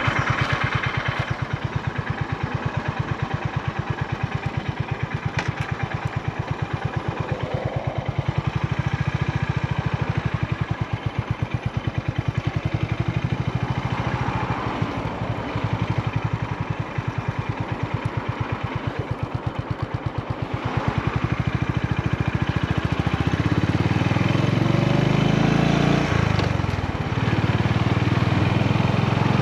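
Honda GB350's air-cooled single-cylinder engine running, its exhaust thumping in an even, steady rhythm. It gets louder and deeper a little over twenty seconds in, easing off briefly near the end.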